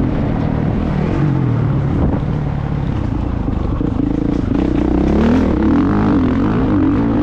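Motocross motorcycle engine running hard, its revs rising and falling repeatedly.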